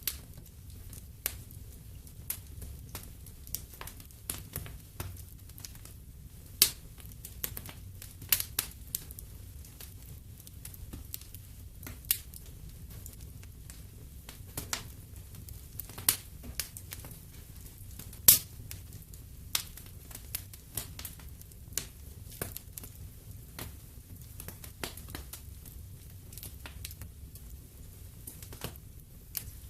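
Wood fire in a fireplace crackling, with irregular sharp pops and snaps over a low steady rumble; a few louder pops stand out, about two-thirds of the way in and near the middle.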